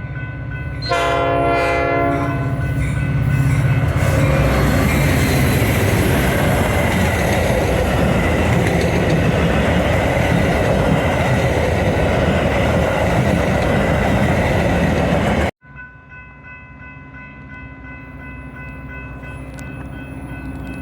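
A train horn sounds one chord for about a second and a half, then a train passes close by with a loud, steady rush of wheels and cars. The sound cuts off abruptly near the end and gives way to a quieter, slowly building rumble.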